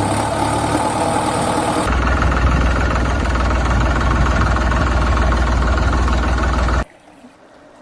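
Vehicle engine sound running steadily. It switches to a deeper, heavier engine rumble about two seconds in and cuts off abruptly near the end.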